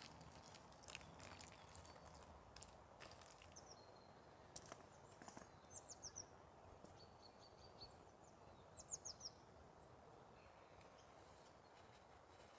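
Quiet outdoor ambience with a songbird giving short, high chirps in small groups about three to nine seconds in, and a few soft clicks in the first seconds.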